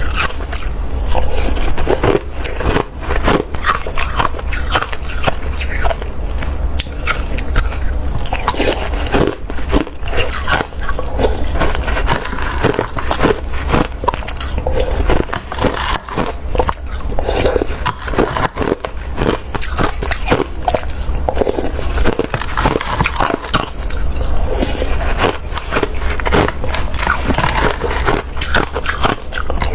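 Close-up biting and crunching of watery, slushy ice, a dense, continuous run of crackling crunches.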